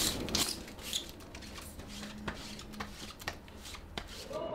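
Light rustling and a scatter of short, sharp ticks from something being handled, like paper being folded and fingered.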